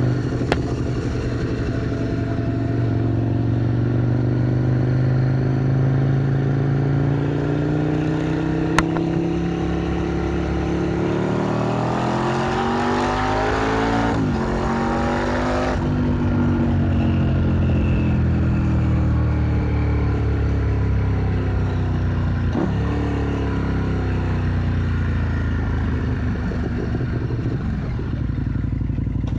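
Motorcycle engine heard while riding: it runs steadily, then climbs in pitch as it accelerates, with a brief dip partway through, like a gear change. It then eases off and falls in pitch as the throttle closes, over steady road and wind noise.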